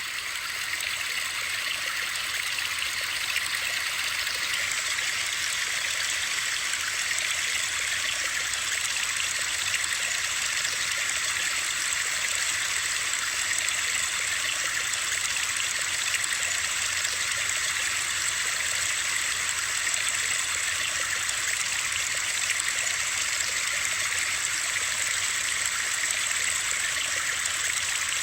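Steady hiss of rushing water, even and unchanging, strongest in the higher register, played as white noise for sleep.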